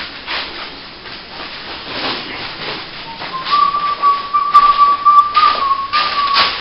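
Steel plastering trowel scraping wet top-coat plaster across a plasterboard joint in repeated short strokes. From about halfway a thin, nearly steady whistle-like tone sounds over the strokes until just before the end.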